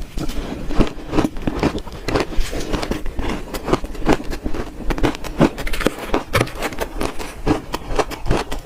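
Close-miked crunching of shaved ice being bitten and chewed: rapid, irregular sharp crunches and crackles, several a second.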